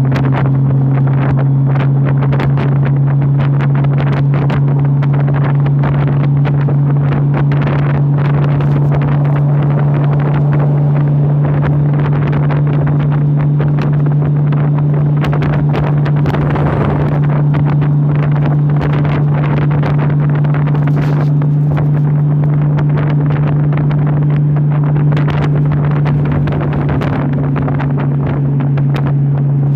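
Honda motorcycle engine running at a steady cruise of about 60 mph, holding one even pitch throughout, with wind rushing over the microphone.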